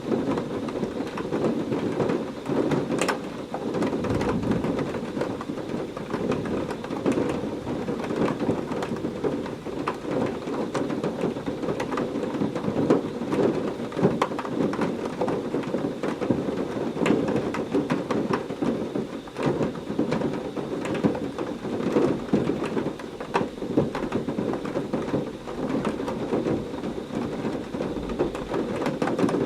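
Heavy rain falling steadily, full of close individual drop splashes, with low thunder rumbling faintly a few seconds in and again near the end.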